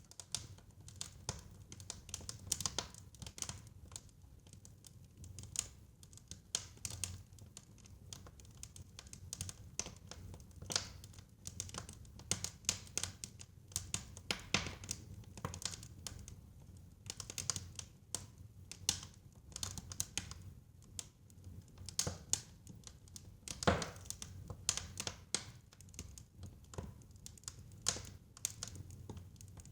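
Fire crackling in a fireplace: a constant run of irregular pops and snaps, some louder than others, over a low steady rumble of the flames.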